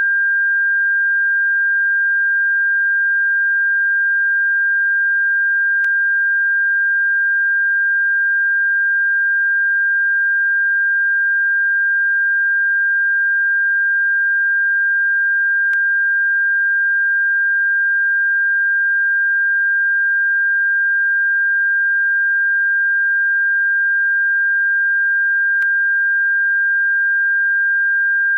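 Electronic bird-repellent tone: a single steady, high-pitched pure tone that holds the same pitch and loudness throughout. Faint clicks come about every ten seconds.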